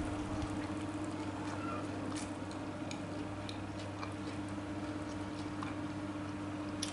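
A person chewing fried tofu, with faint, scattered wet mouth clicks over a steady low hum.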